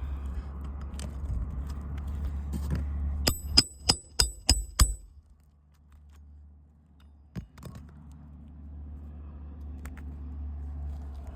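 Hammer driving a nail into roof shingles: a quick run of about six sharp, ringing metal strikes, roughly four a second. A single knock follows a few seconds later, over a steady low rumble.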